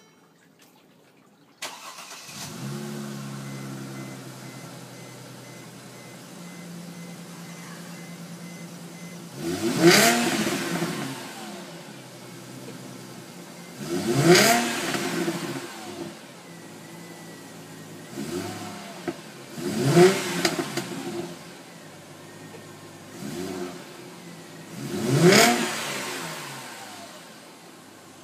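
2011 Mercedes-Benz C300's V6 engine, with a custom cone-filter intake and stock exhaust, starting up about two seconds in and settling to idle. It is then revved in short blips, four strong and two lighter, each rising and dropping back to idle.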